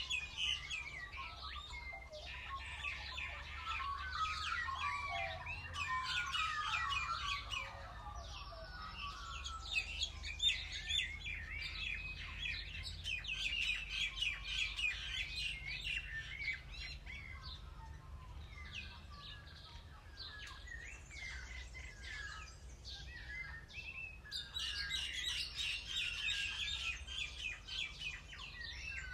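Many birds chirping and singing at once, quick high chirps and trills overlapping. It thins out for a few seconds about two-thirds of the way through, then fills in again near the end.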